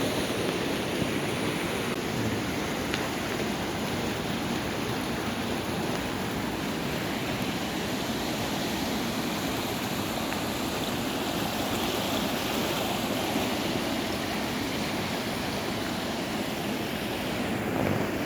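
Steady rush of flowing floodwater after heavy rain, even and unbroken.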